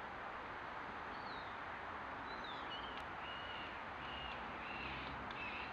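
A small bird calling outdoors: a series of short, high chirps repeating about twice a second, over a steady background hiss.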